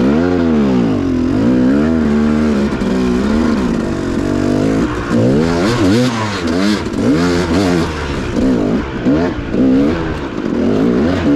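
Dirt bike engine revving up and down under throttle, rising and falling in slow swells at first, then in quicker, shorter blips from about five seconds in.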